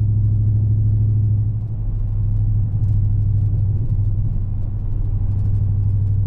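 Dodge Charger Scat Pack's 6.4-litre HEMI V8 running steadily under way, a deep low drone heard from inside the cabin, with a brief dip in the engine note about a second and a half in.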